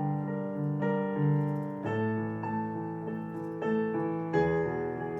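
Roland FP-30 digital piano played as a keyboard, with sustained chords and a low note pattern restruck about twice a second. A new chord comes in about two seconds in and another near the end.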